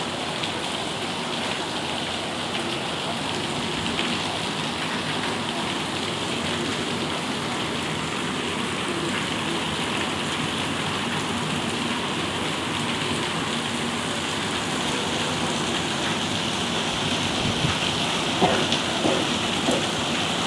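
Steady rain falling during a storm, with louder drips or taps on a surface coming in during the last few seconds.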